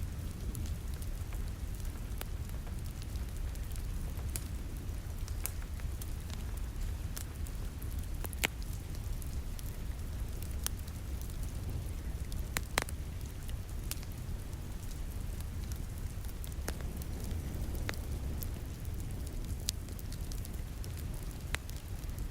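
Wood fire crackling in a fireplace, with scattered sharp pops (two louder ones about 8 and 13 seconds in), over the steady low hiss and rumble of rain falling against a window.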